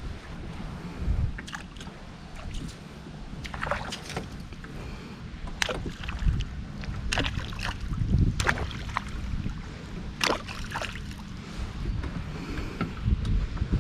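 Water sloshing against a kayak's hull, with a low wind rumble on the microphone and a scattered series of short, sharp splashing noises.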